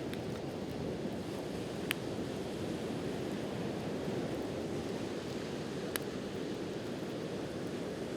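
Steady wash of ocean surf, with a wood campfire giving two sharp crackling pops, about two seconds in and again about six seconds in.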